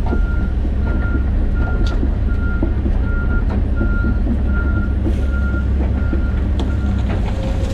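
John Deere 130G excavator's diesel engine running steadily under a repeating high beep, about one and a half a second, from its travel alarm as the machine tracks; the beeping stops about seven seconds in.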